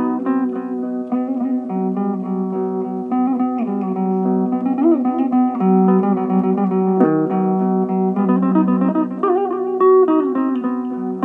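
Electric mandolin playing a plucked melody with bent, wavering notes over steady held low notes.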